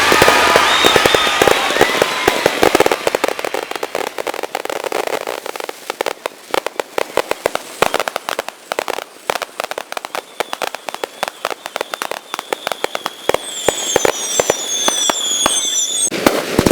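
Fireworks crackling as a rapid, dense string of sharp pops. Near the end, a steady high whistle and several short falling whistles join in.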